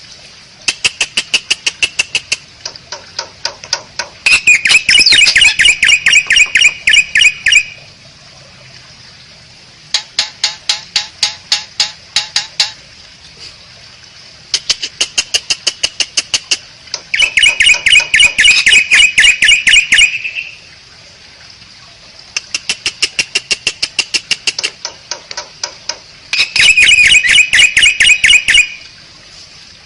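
Asian pied starling (jalak suren) giving bouts of rapid, evenly spaced chattering notes, about ten a second, each bout lasting two to three seconds with short pauses between. A faint steady high hiss runs underneath.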